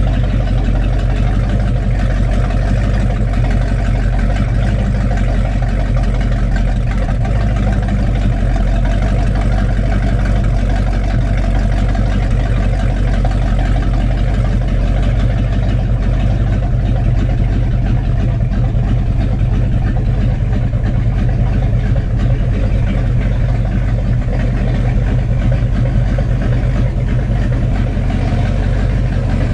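Freshly rebuilt Mercruiser 7.4-litre (454) big-block V8 marine inboard, counter-rotation, running steadily at idle on a test run.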